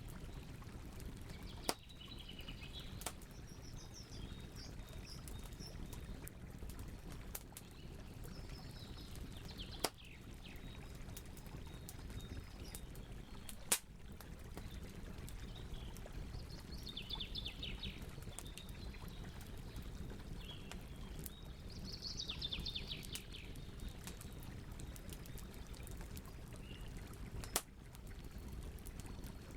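Campfire burning with a steady low crackle, a handful of sharp pops spread through it. Birds twitter in short bursts over the fire several times.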